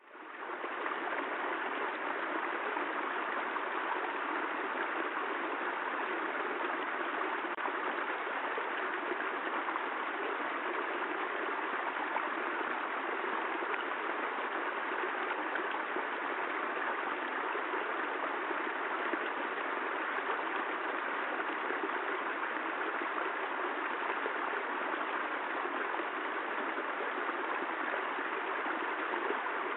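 Steady, even rain, with a brief dropout and fade back in at the very start.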